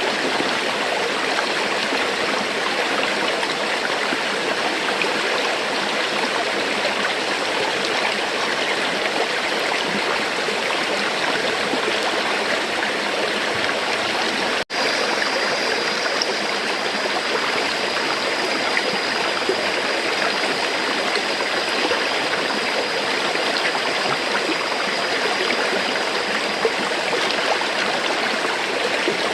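River water flowing in a steady, even rush, broken by a split-second dropout about halfway through, after which a faint steady high tone sits over the water.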